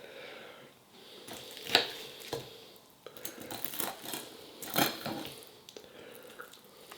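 Cutlery clinking and scraping against a plate while eating: a series of short sharp clinks, two of them louder than the rest.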